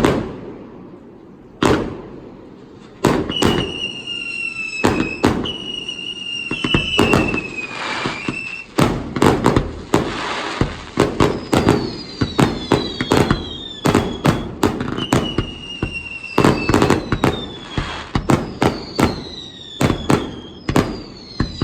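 Aerial fireworks going off in a rapid, irregular string of sharp bangs and crackles, sparse for the first few seconds and then nearly continuous. Long whistling tones, several at once, slowly fall in pitch over the bangs.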